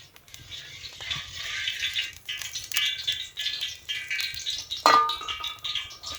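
Cooking utensils and cookware clattering and scraping in quick succession, with one loud metallic clank about five seconds in that rings briefly.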